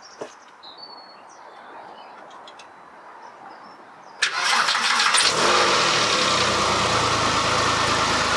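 Porsche 996 flat-six engine started: the starter cranks about four seconds in, the engine catches within about a second and settles into a steady idle. It is the first start after new coil packs and spark plugs were fitted, and it fires and runs evenly.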